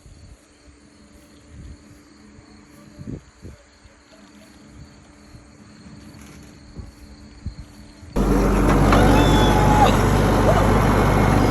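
Quiet outdoor ambience with a few soft thumps, then about eight seconds in a loud vehicle engine cuts in abruptly and runs steadily, with voices over it.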